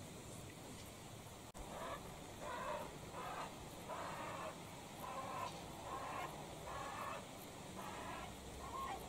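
A bird giving a series of harsh, evenly spaced calls, about three every two seconds, beginning about a second and a half in.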